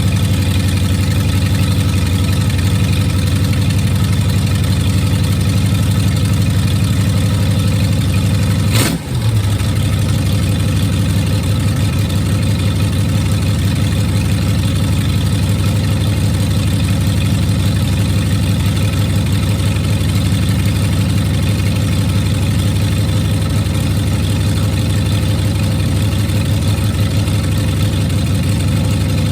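Carbureted V8 engine idling steadily at a raised idle, held up by the choke, running on all cylinders with freshly fitted plugs and wires. A brief click and short drop in level about nine seconds in.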